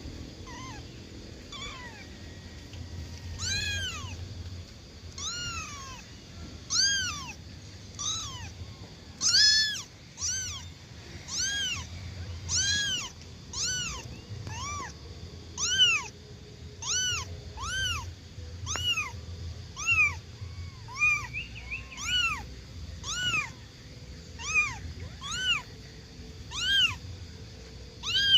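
A young kitten meowing over and over, high-pitched calls that rise and fall, about one a second: a kitten's distress cries for its absent mother.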